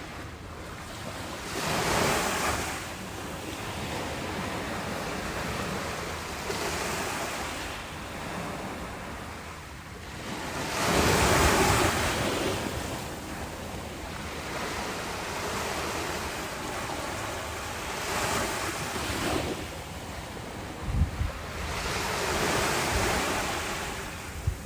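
Ocean waves washing onto the shore, swelling and ebbing every few seconds, with the biggest surge about halfway through. Wind rumbles on the microphone, with two brief low thumps near the end.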